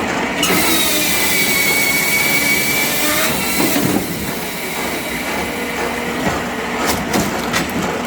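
Firewood-processing machinery running on oak logs, a steady mechanical din. A high whine starts about half a second in and stops just before the four-second mark, and a few sharp clicks come near the end.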